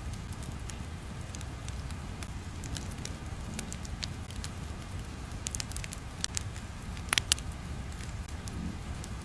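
Crackling fire ambience: a steady low rumble with scattered sharp pops and crackles, a few louder pops about seven seconds in.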